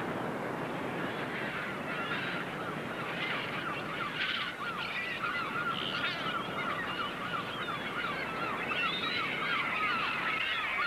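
A flock of seagulls calling, many short overlapping calls that build up from about two seconds in, over a rush of noise that thins out after the first few seconds.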